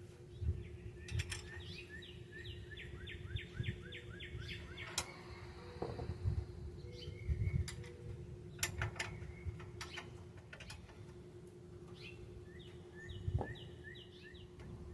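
A bird singing a quick run of repeated chirped notes, about a second in and again near the end, with a few sharp clicks in between and a faint steady hum underneath.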